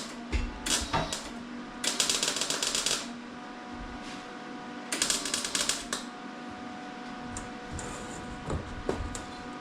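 MIG welder laying short beads on an exhaust pipe: two crackling bursts of about a second each, with shorter ones before, over a steady hum.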